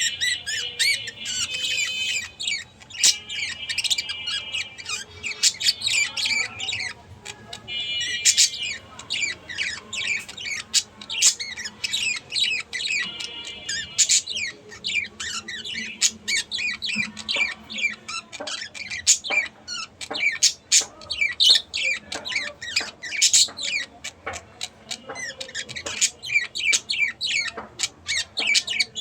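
Budgerigars chattering: a dense, continuous run of quick chirps, warbles and squawks.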